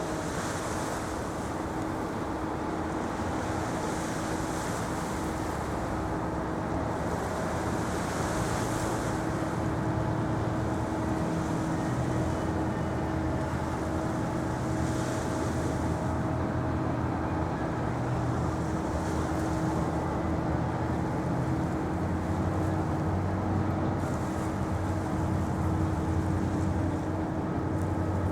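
Waterfront ambience: a steady low engine drone with a constant hum, wind on the microphone, and a hiss that swells every few seconds like waves washing in.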